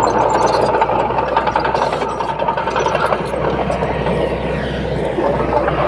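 Heavy diesel engine of earthmoving machinery running steadily, with a constant low hum and a faint steady whine above it.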